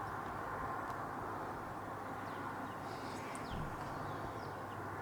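A few faint, short, high chirps from garden birds, between about two and four seconds in, over a steady background hum.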